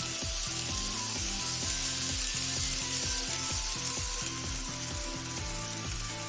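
N-scale model trains running on the track: a high, rushing hiss of wheels and motors that swells in the middle as a train passes close and eases near the end. Background music with a steady beat plays underneath.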